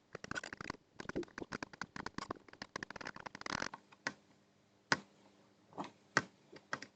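Flux crackling and popping under a soldering iron as the joints are reflowed, in a dense run of quick clicks that thins to scattered single pops after about three and a half seconds.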